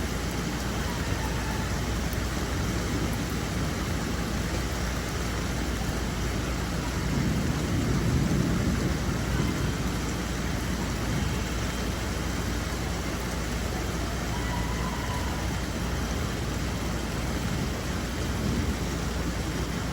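Steady hiss of falling rain, with a low rumble that swells and fades about eight seconds in.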